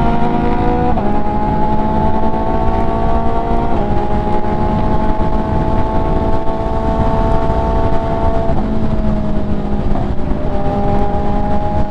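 MV Agusta F3 three-cylinder sport bike engine under way, its pitch climbing steadily in each gear. It drops sharply with an upshift about a second in, again near four seconds and again past eight seconds. Heavy wind noise is mixed in.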